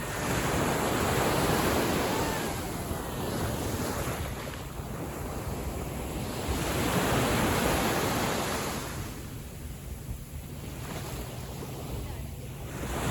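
Small sea waves washing in at the shore, the surf swelling and easing about every three to four seconds, with wind buffeting the microphone.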